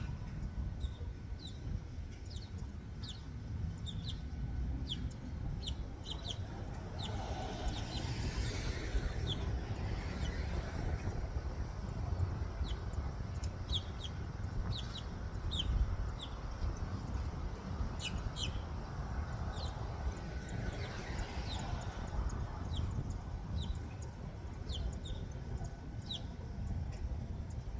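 Small birds chirping in short, repeated high notes, scattered throughout, over a steady low rumble.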